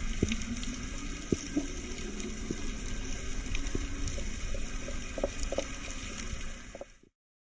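Steady water ambience with a low rumble and scattered small clicks and pops, cutting off suddenly about seven seconds in.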